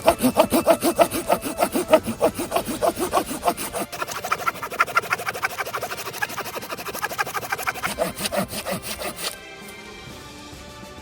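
Hand saw cutting through wood with quick, rhythmic back-and-forth strokes, about four a second. The pitch of the strokes shifts abruptly about four seconds in, and the sawing stops about nine seconds in.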